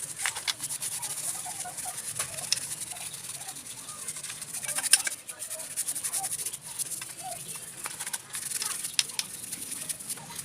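Stiff brush scrubbing a soapy engine top in quick, irregular scratchy strokes, with chickens clucking faintly in the background.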